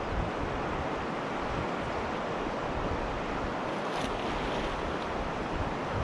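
Steady rush of a mountain river's current, an even noise with no let-up.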